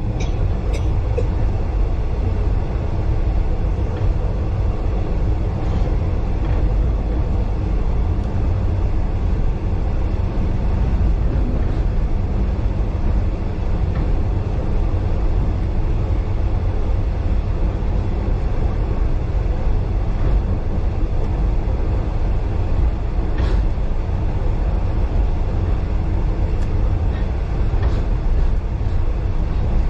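Steady, loud rumble of a moving passenger train carriage running along the track, heard from inside, with a few faint sharp clicks.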